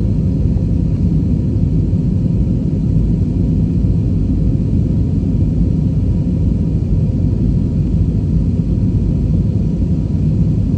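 Passenger airliner taking off: a steady low rumble of engines and airflow that holds even throughout.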